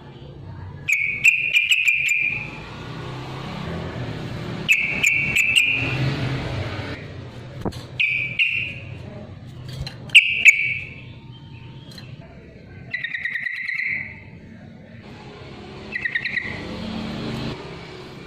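Yellow-vented bulbul (trucukan) singing: short, bubbly phrases repeated about every three seconds, with a low hum in the gaps.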